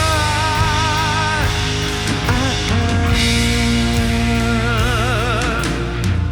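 Rock band playing live: a voice holds a long wavering note for about the first second and a half, then the band carries on with sustained guitar and bass notes over the drums.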